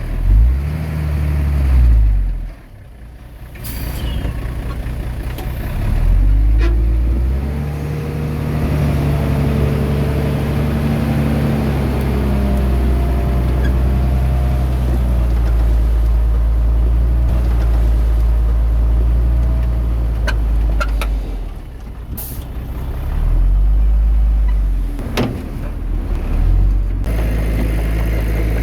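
Heavy diesel engines of earthmoving machinery working, the engine pitch rising and falling as they rev under load. A few short, sharp hissing or clanking sounds are heard among them.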